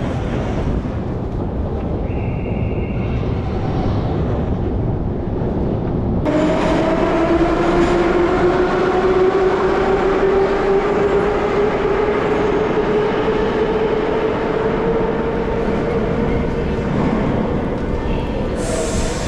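Electric train riding along: a steady rumble from wheels and carriage, and after about six seconds a traction-motor whine that slowly climbs in pitch as the train gains speed.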